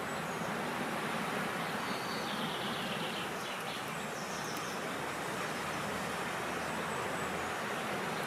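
Steady wind rushing outdoors, with a few faint bird chirps about halfway through.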